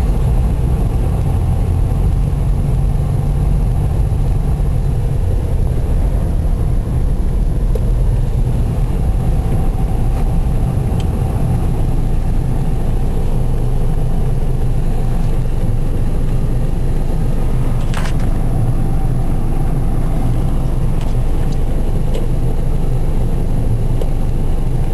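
A car driving: steady low engine and road rumble, with one sharp click about three-quarters of the way through.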